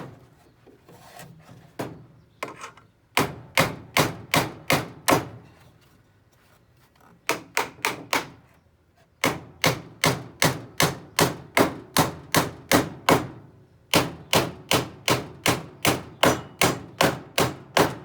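Hammer driving nails into wood: a few scattered taps, then runs of quick, even strikes about four a second, broken by short pauses.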